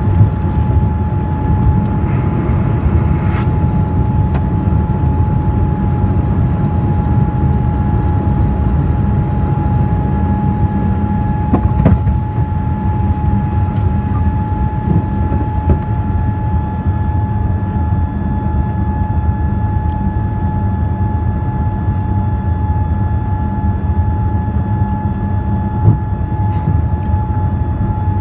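Passenger airliner's jet engines and airflow heard inside the cabin during takeoff: a loud, steady rumble with a steady whine over it.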